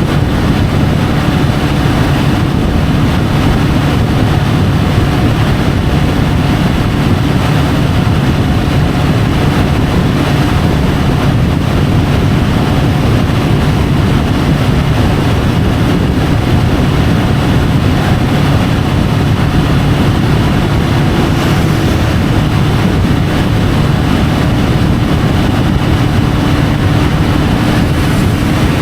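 Triumph Tiger 850 Sport's inline-three engine running at a steady cruise, with wind rushing over the bike-mounted camera's microphone.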